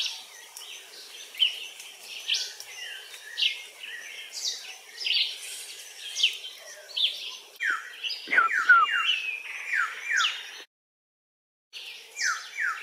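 Wild birds calling in jungle: short downward-sliding chirps repeated about once a second, with a quicker run of falling notes partway through. A faint steady high hum sits underneath. The sound cuts out for about a second near the end.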